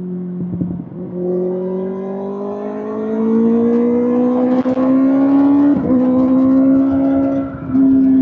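Kawasaki ZX-6R inline-four running through an SC-Project SC-1R exhaust under steady throttle, its note climbing slowly in pitch, with two brief breaks in the sound about six and seven and a half seconds in.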